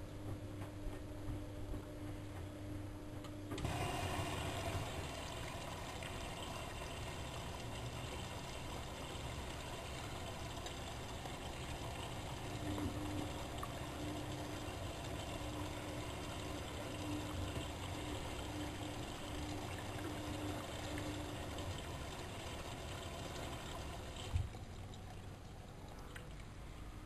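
Siemens Siwamat 6143 washing machine with water rushing in, starting suddenly a few seconds in and cutting off with a click near the end, over a steady low hum.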